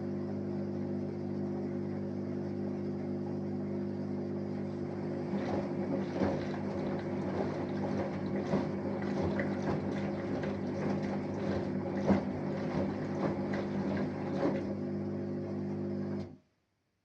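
Samsung Eco Bubble 6.5 kg washing machine with an inverter motor running mid-wash: a steady hum, with water sloshing and splashing unevenly in the drum for several seconds in the middle. The sound cuts off suddenly near the end.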